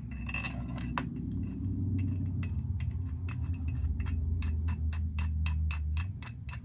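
A quick run of short clicks, a few a second and coming faster toward the end, from buttons being pressed as the newly reinstalled Uconnect radio unit is tested. A steady low hum runs underneath and grows louder about a second and a half in.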